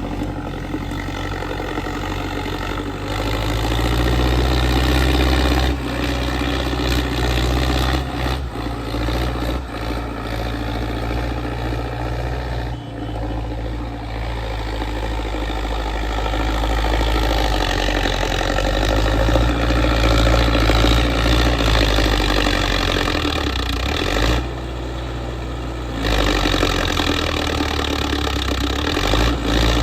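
Tractor engine running steadily, its level rising and falling several times as it works.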